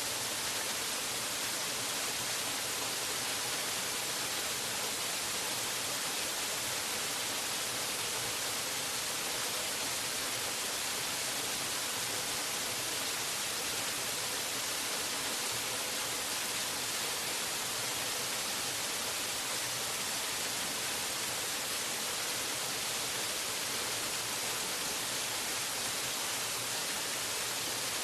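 A waterfall's steady rushing water: an even hiss-like roar that holds at the same level throughout.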